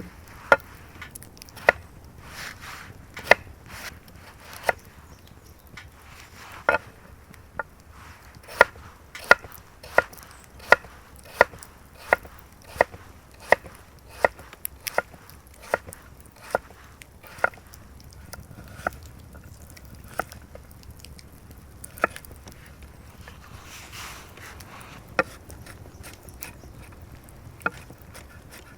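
Repeated sharp chopping knocks on wood, about one and a half a second through the middle stretch, then thinning out to a few scattered strikes near the end.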